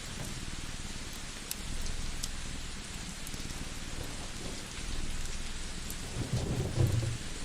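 Layered cozy ambience: steady rain hiss, a cat purring in slow cycles, and a few sharp crackles from a wood fire. A louder low rumble swells about six seconds in.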